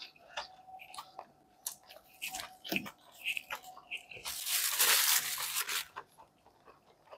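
Close-miked chewing of a mouthful of Angus burger: soft, irregular wet clicks and smacks. About four seconds in, a louder rustle lasts about a second and a half.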